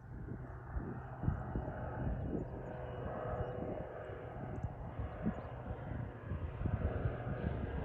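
Diamond DA42 NG Twin Star light twin, its two diesel propeller engines droning steadily.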